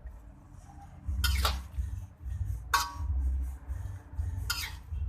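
A cooking utensil stirring vegetables in a sauce in a pan on the stove, scraping against the pan three times about a second and a half apart.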